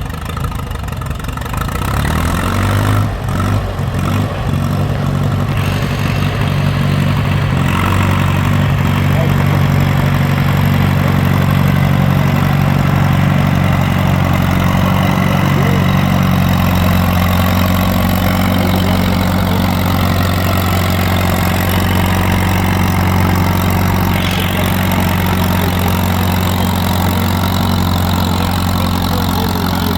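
Antique tractor engine running under load, getting louder and picking up speed about two seconds in, then running steadily.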